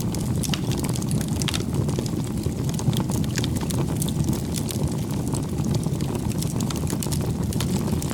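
Wood bonfire burning, with a steady low rumble under frequent sharp, irregular crackles and pops.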